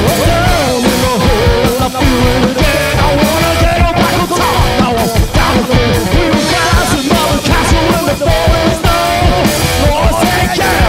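Loud live garage-punk rock band playing, with electric guitar to the fore.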